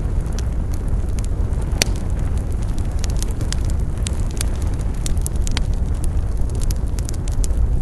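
Wood fire burning with a steady low rush and frequent sharp crackles and pops, one louder pop about two seconds in.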